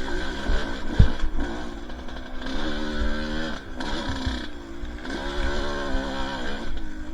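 Two-stroke dirt bike engine revving up and dropping back again and again as the bike rides a trail, with a sharp thump about a second in.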